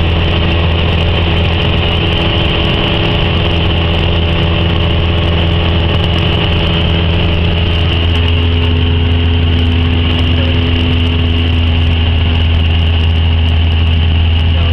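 Cessna 172's piston engine and propeller heard inside the cabin, a loud, steady drone with a deep hum. The engine note shifts slightly about halfway through.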